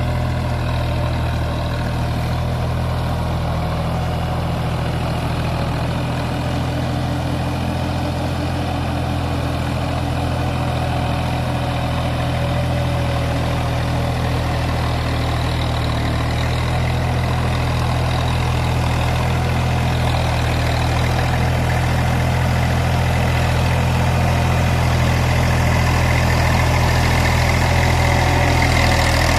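Massey Ferguson tractor's diesel engine running steadily at low revs, growing slightly louder over the last ten seconds or so.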